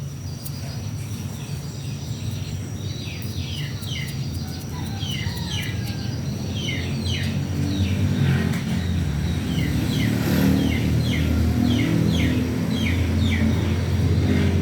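Male cockatiels chattering, a rapid run of short falling chirps repeated many times, over a low rumbling background noise that grows louder about halfway through.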